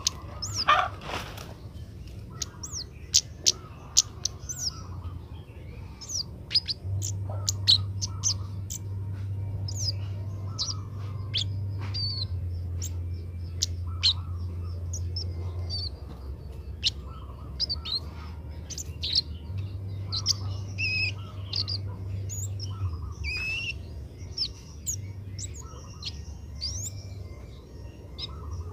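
Kemade bird chirping: many short, sharp, high notes with quick rising and falling sweeps, scattered irregularly. A steady low hum runs underneath.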